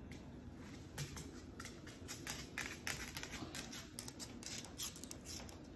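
A Moluccan cockatoo working at something with its beak: quick, irregular dry clicks and scratches that come in a busy cluster from about a second in until near the end.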